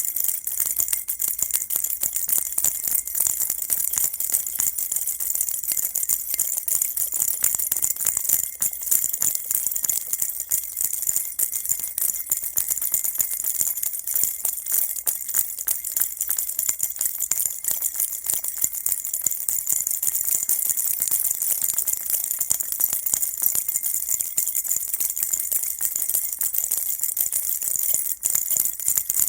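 Baby rattle shaken continuously, a dense, even jingling with small bells, kept up without pause as a soothing white-noise sound.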